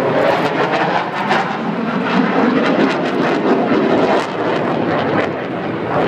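Fixed-wing aircraft flying overhead: a loud, steady rushing engine noise.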